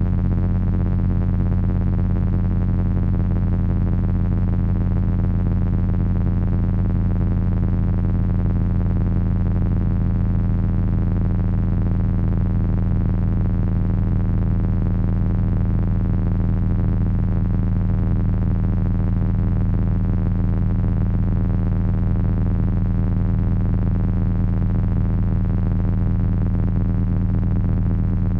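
Electronic drone noise from three Frequency Analyzer v1 units driven by an HP 200C oscillator: a steady, heavy low drone with a wavering, buzzing layer of higher tones above it.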